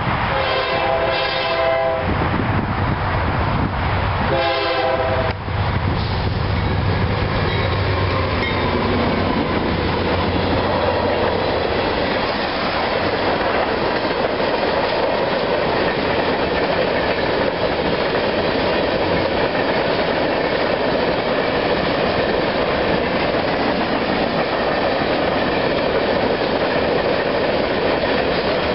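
CSX freight train: the diesel locomotives sound their horn at the start and again briefly about four seconds in, the engines rumble past, then a long string of tank cars rolls by with steady wheel-on-rail noise and clacking over the rail joints.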